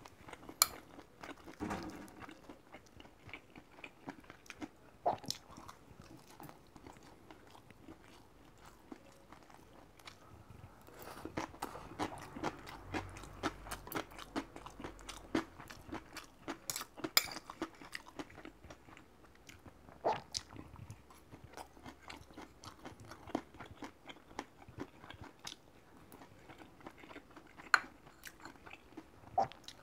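Close-up eating sounds: a person chewing and crunching a mouthful of rice and side dishes, with wet smacking, and now and then a sharp click of metal chopsticks against a steel bowl.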